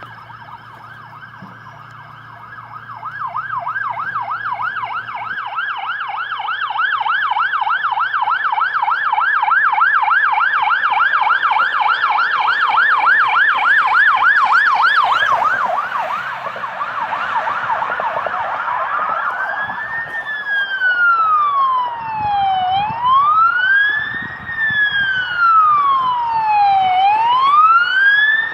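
Two police car sirens. A fast yelp grows louder a few seconds in, then gives way about halfway through to a slow wail that rises and falls every four seconds or so, with a second siren's wail overlapping it.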